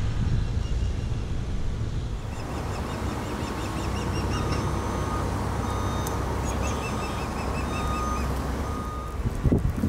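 Steady low rumble of vehicle or machinery engines and wind, with two runs of rapid, high bird-like chirping trills and a thin held tone in the middle.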